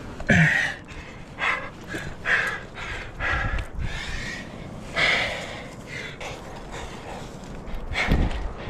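A climber straining on a hard, runout crack: loud, quick, heavy breaths and panting, with a couple of short vocal grunts that drop in pitch, one just after the start and one near the end.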